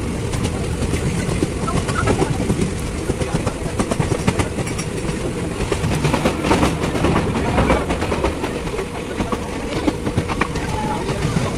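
Passenger train running, its wheels and carriages clattering steadily on the track with a dense rattle of sharp clacks and knocks.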